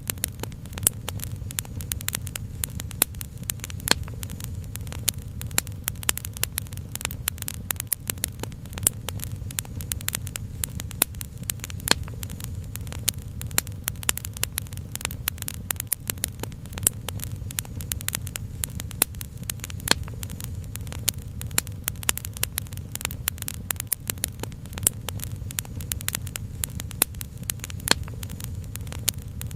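Crackling wood fire: a dense, irregular run of small pops and snaps over a steady low rumble.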